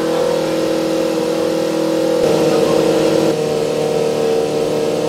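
Formula Student race car engine running at steady raised revs, held on the throttle during engine mapping. Its pitch shifts about two seconds in and again a second later.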